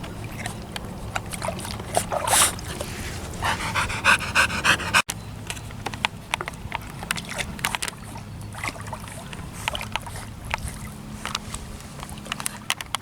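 A dog panting, with a short whine about three and a half seconds in.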